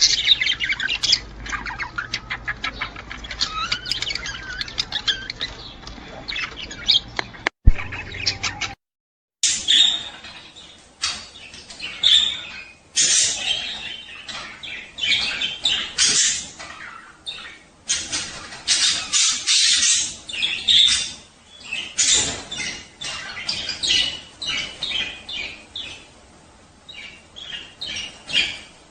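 Budgerigars chattering and warbling nonstop, with sharp squawks and chirps among the rapid calls. About nine seconds in the sound cuts to silence for a moment after a click, then the chatter resumes.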